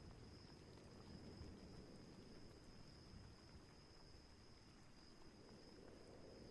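Faint nighttime storm ambience: a low, uneven rumble of distant thunder and wind, with a thin, steady high-pitched tone above it.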